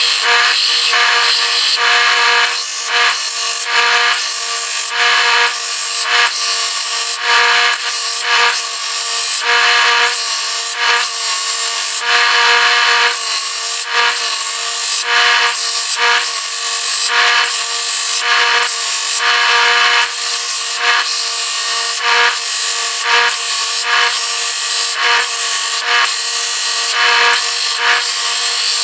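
Electric power tool running steadily while working wood, its sound rising and falling with each pass over the wood: shaping the draw knife's wooden handles.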